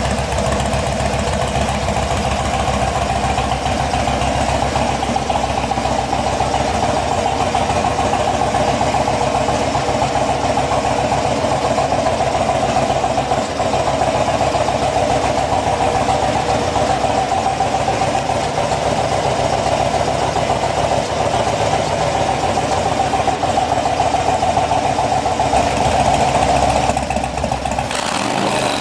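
Harley-Davidson FXDL Dyna Low Rider's V-twin idling steadily through a Bassani exhaust, with a deep, lumpy beat.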